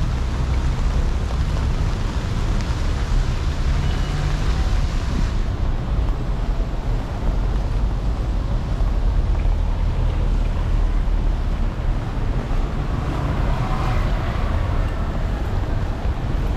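Steady city street noise: traffic running on the road, mixed with a rumble of wind on the microphone.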